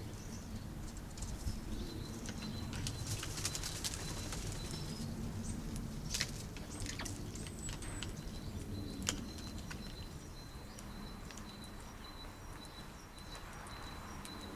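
A small garden bird calling, a series of short high notes repeated evenly, over scattered sharp clicks and taps and a low background rumble.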